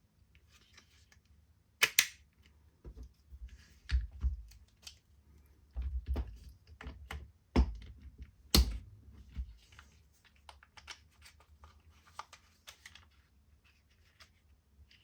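Clicks, knocks and light rustling from handling a Wera Tool-Check Plus bit and socket set in its plastic case. Two sharp clicks, about two seconds in and past the middle, are the loudest.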